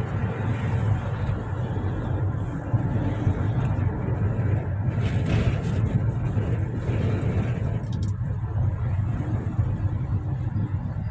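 Steady low rumble of road traffic, with a passing vehicle's noise swelling briefly about halfway through.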